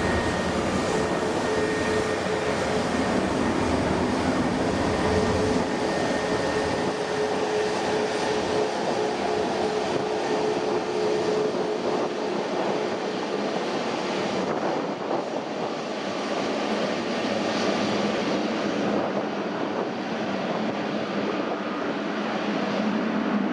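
Jet airliner engines running, a loud steady rush of noise with a steady whine that fades out about halfway through and a lower hum coming up near the end.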